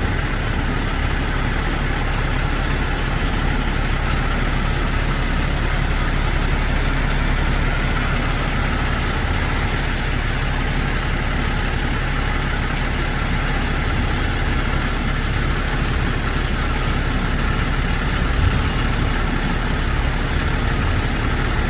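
Heavy diesel truck engine idling steadily, a constant low rumble.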